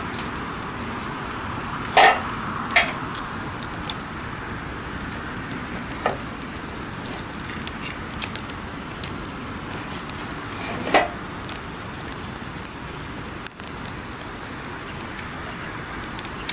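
Wood campfire burning: a steady crackling hiss with sharp pops of burning wood, the loudest about two seconds in, again just after, and near the middle.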